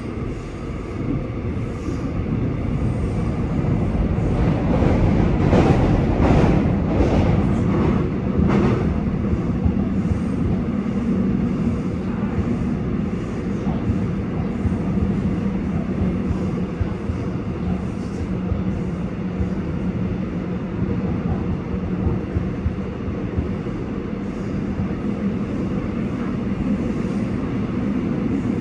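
Seoul Subway Line 6 electric train running at a station platform. A rumble builds over the first few seconds, a run of sharp clicks comes about five to nine seconds in, and then a steady hum holds.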